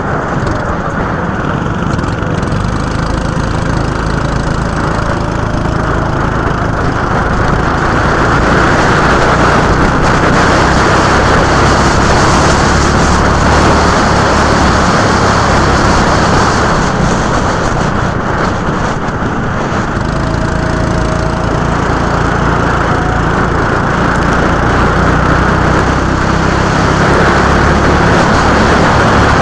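Go-kart engine running at speed on track, a loud, dense, continuous noise that grows louder for a stretch in the middle and again near the end.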